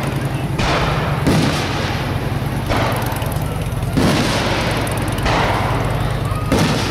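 Aerial fireworks shells bursting overhead at close range: three sharp booms, about a second in, at four seconds and near the end, each followed by a long fading rush of noise. A steady low hum runs underneath.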